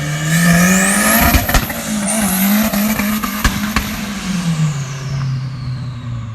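Turbocharged Honda B20V four-cylinder in an Acura Integra accelerating hard. The engine pitch climbs, dips briefly about two seconds in, climbs again, then falls away from about four seconds on, with a few sharp pops or clicks in between. A high turbo whistle rises steeply with the revs and slides down as they drop.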